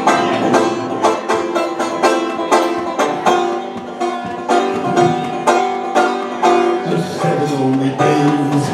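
Banjo picking a quick run of plucked notes as an instrumental introduction, with lower notes coming in near the end.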